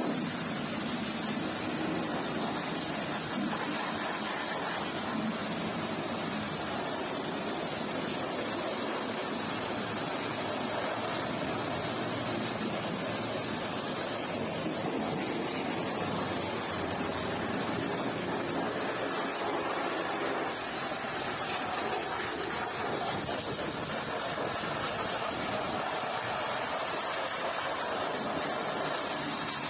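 Pressure washer spraying water, a steady, unbroken hiss.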